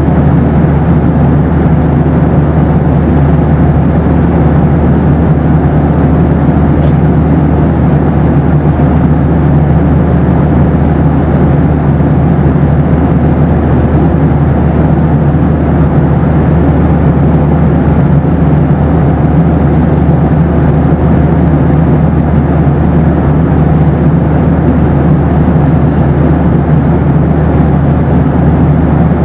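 Boeing 737 cabin noise: a loud, steady, deep rumble and rush of engines and airflow with a faint steady hum, and one faint click about seven seconds in.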